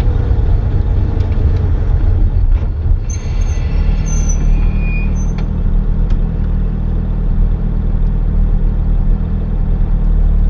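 Porsche 997.1 GT3's flat-six heard from inside the cabin, running unevenly as the car rolls slowly to a stop, then settling into a steady idle about four seconds in. A few short high squeaks come as it stops.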